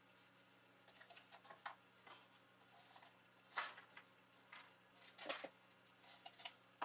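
Faint, irregular light clicks and taps, the loudest a little past halfway.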